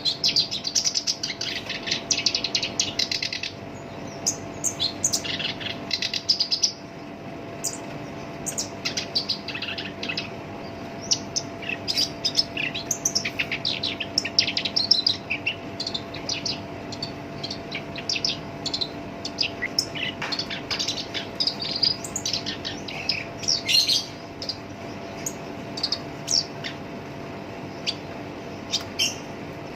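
Black-browed reed warbler singing its harsh, chattering song: a dense run of quick notes for the first few seconds, then short bursts of phrases with brief gaps. A faint steady hum runs underneath.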